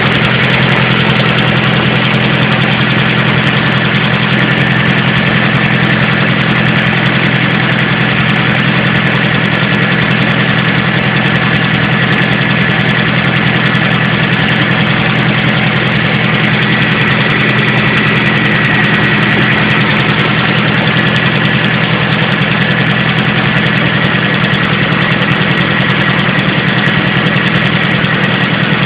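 Vehicle engine idling steadily, with a thin high whine above the running sound; the owner wonders whether it is an abnormal noise.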